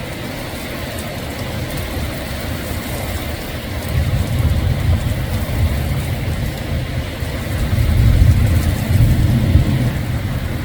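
Severe thunderstorm: strong wind gusts with heavy rain, a low rumble that swells about four seconds in and is loudest around eight seconds.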